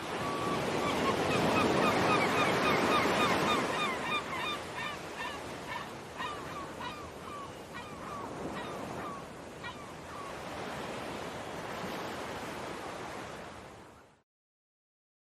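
Seagulls calling in a long run of short, falling cries, several a second, tailing off after about ten seconds, over a steady wash of surf and wind. The sound cuts off abruptly near the end.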